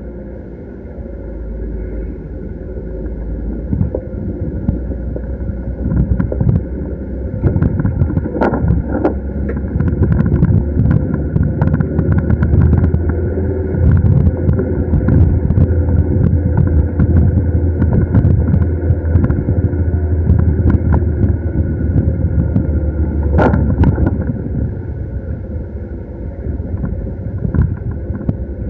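Ambulance on the move, its engine and road noise heard from inside the vehicle, growing louder through the middle stretch. Scattered short clicks and knocks come through over it.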